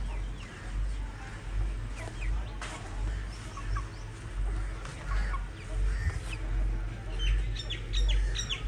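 Indian parrot-beak chickens clucking and calling in short, scattered notes, with a quick run of high chirps near the end, over a steady low rumble.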